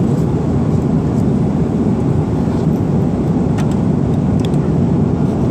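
Steady, loud rumble of an airliner cabin in flight, with a few faint clicks.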